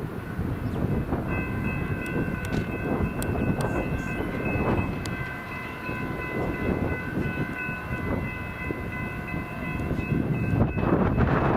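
A train passes with a rumble and a rattling clatter of wheels on the rails. A steady ringing of several high tones sits over it from about a second in and cuts out briefly near the end.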